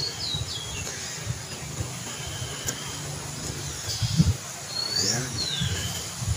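Outdoor ambience: birds give a few short high chirps and whistles, falling near the start and rising then falling about five seconds in, over a low steady rumble.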